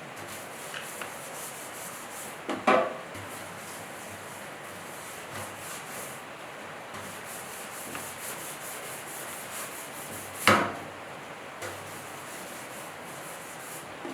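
Steady rubbing and scraping, with two sharp knocks, one about three seconds in and one about ten seconds in.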